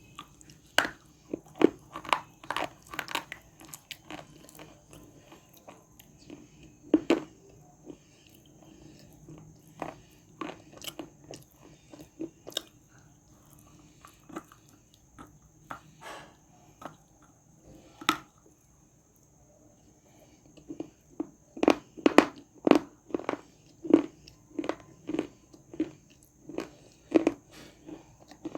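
A person biting and crunching dry, crumbly edible clay close to the microphone: crisp crunches in irregular clusters with pauses between, then a fast run of crunches, about two or three a second, in the last third.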